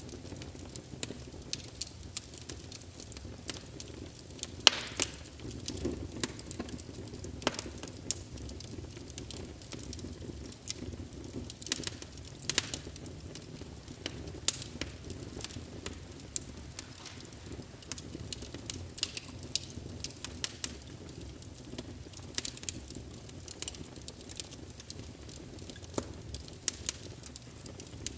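Wood fire burning in a fireplace: a low steady rumble of flames with frequent irregular crackles and sharp pops from the burning logs.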